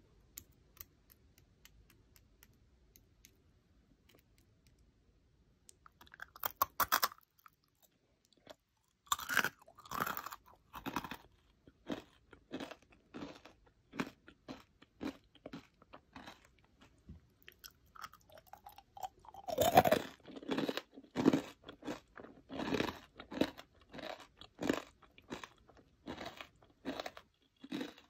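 Crunchy honeycomb-sugar scorched-rice snack (dalgona nurungji): a brief crackle about six seconds in, then steady crisp crunching about once or twice a second as it is chewed.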